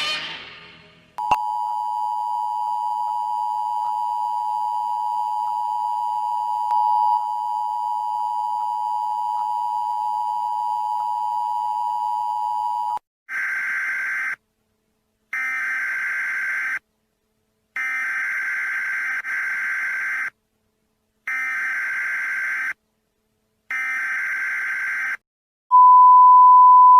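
Telephone line tones: a steady dial tone for about eleven seconds, then five repeated tones, each about a second and a half long with a second's gap between them. Near the end comes a single louder steady beep.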